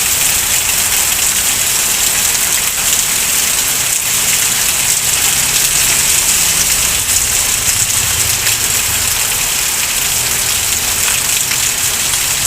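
Heavy rain pouring down steadily, a dense hiss of countless drops striking the surfaces around.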